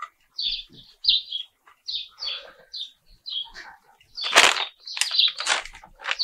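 A bird chirping over and over in short, high notes. About four seconds in, a loud crinkling rustle of a plastic bag of potting medium being picked up and moved, then more rustles.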